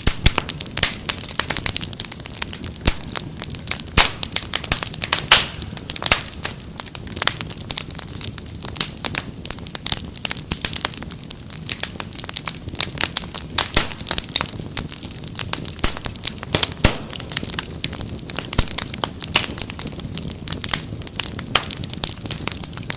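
Wood fire crackling, with frequent irregular snaps and pops over a low steady rush of flame.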